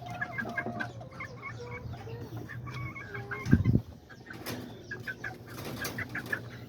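Caged bantam chickens clucking with many short, quick calls throughout. A single dull thump about halfway through is the loudest sound.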